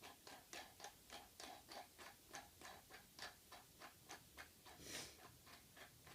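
Faint, rapid, regular ticking, about three ticks a second, as a scooter's compression bolt is threaded onto the fork.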